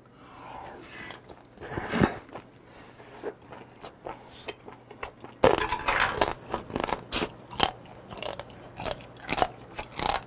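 A person chewing a mouthful of chopped raw octopus and raw beef (nakji tangtangi) close to the microphone: a string of short mouth clicks and smacks that grow louder and more frequent about halfway through.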